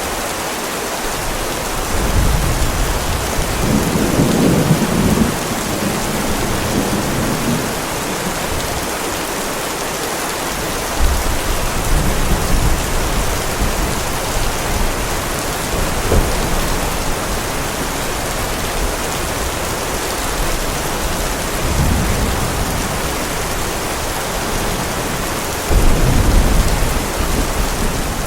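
Heavy rain falling steadily with thunder rumbling several times: a long rumble about two seconds in, more through the middle, and a loud one near the end.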